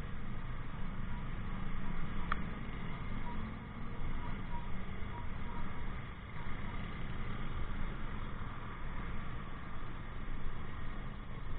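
Riding noise from a motorcycle in city traffic: a steady, uneven low rumble of engine, tyres and air, with one short click about two seconds in.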